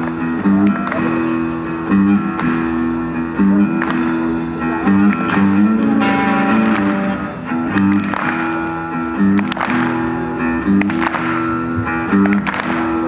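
Live rock band playing a guitar-led instrumental passage, with sustained chords and a sharp hit about every one and a half seconds.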